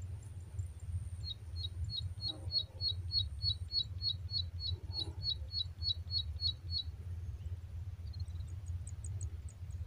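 A small bird giving a quick run of identical short, high chirps, about three or four a second, starting about a second in and stopping after some five seconds, over a low steady rumble.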